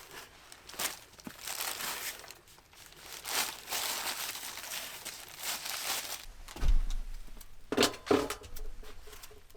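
Crinkling, rustling handling noise, like stiff fabric or plastic being moved about in bursts, with a few sharper thumps and clicks about two-thirds of the way through.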